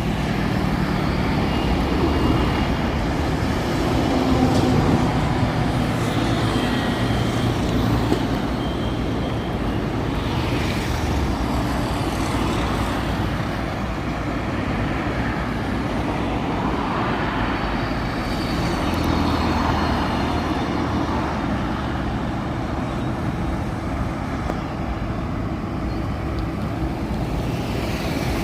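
Steady road traffic of cars and trucks passing in heavy rain, a continuous mix of engines and wet noise.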